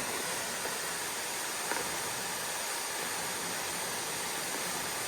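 Waterfall and stream water rushing, a steady even hiss.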